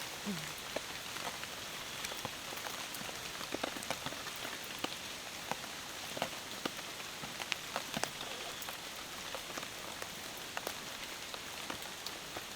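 Rain falling: a steady hiss with many single drops ticking sharply on nearby surfaces.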